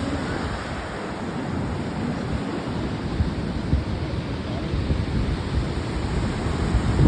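Pacific Ocean surf washing onto the beach in a steady rush, with wind buffeting the microphone in low gusts.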